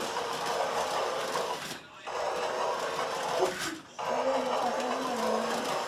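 Electric toy train's motor whirring steadily as it runs along the track, cutting out briefly twice.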